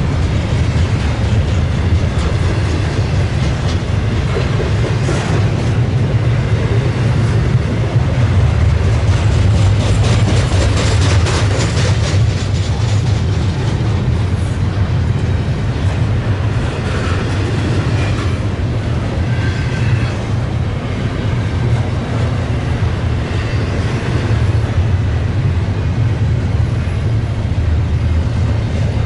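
Freight train of double-stack intermodal cars rolling past at close range. A steady heavy rumble runs throughout, with the wheels clacking rapidly over rail joints, the clacking thickest in the first half.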